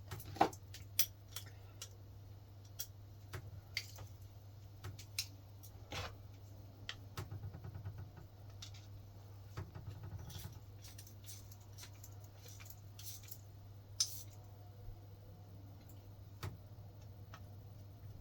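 Small steel parts of a VW air-cooled engine's rocker shaft assembly (shims, rocker arms, end nut) clicking and clinking as they are handled and fitted by hand, in scattered light taps with a sharper clink about half a second in and another near 14 seconds. A steady low hum runs underneath.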